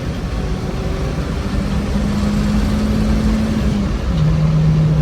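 Turbocharged Honda Civic engine running while the car is driven, its note climbing slowly, then dropping to a lower steady pitch about four seconds in.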